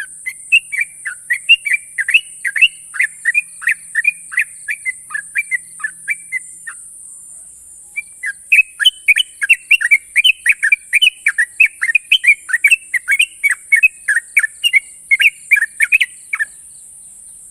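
Yellow-vented bulbul (trucukan) singing a long, fast run of short, sharp whistled notes, several a second, in two long runs with a pause of about a second between them. A steady high hiss lies beneath.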